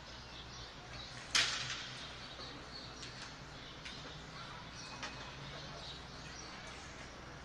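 Faint outdoor background with scattered small bird chirps. A single sharp noise about a second and a half in fades quickly, and a few faint clicks follow.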